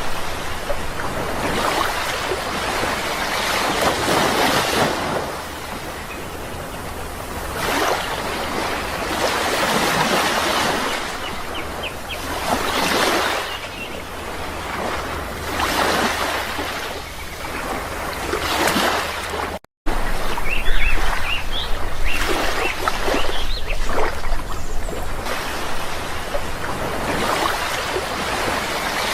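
Sea waves washing onto a shore, the surf swelling and falling back every few seconds, with a few short high bird chirps near the middle and again later. A split-second gap of silence cuts in about two-thirds of the way through.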